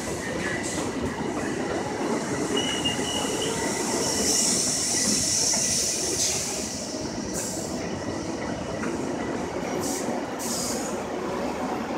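Passenger train running through the station with a steady rumble of wheels on rail. A high wheel squeal rises about four seconds in and fades a couple of seconds later, and a few sharp clicks of wheels over rail joints come near the end.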